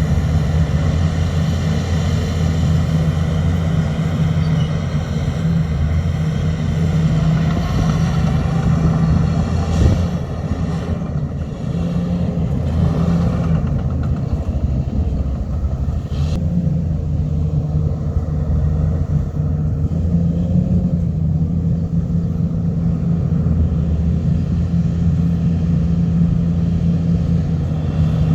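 Old Komatsu bulldozer's diesel engine running hard while pushing dirt, its steady low note rising and dipping with the load. There are two sharp knocks, about ten and sixteen seconds in.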